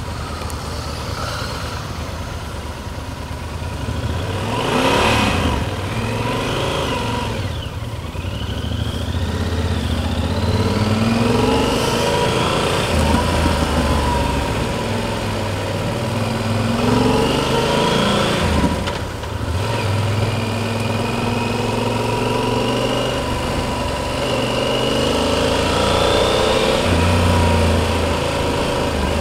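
Yamaha Super Ténéré's parallel-twin engine, heard from the rider's seat, pulling through the gears several times, its pitch rising and then dropping at each shift. Brief gusts of wind noise come twice, near the start and about two-thirds of the way in.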